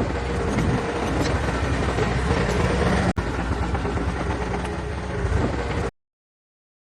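Heavy diesel machinery engine running steadily, with a brief break about three seconds in. The sound cuts out to silence about a second before the end.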